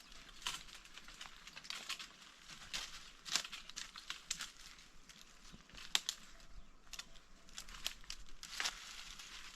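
Irregular crinkling and rustling of dry material, with scattered sharper cracks, the loudest about three and a half and six seconds in.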